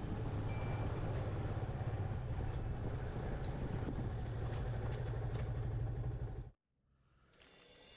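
Yamaha FZS25 motorcycle on the move, a steady engine and road rumble that cuts off abruptly about six and a half seconds in, followed by a brief near silence and a slow rise in sound near the end.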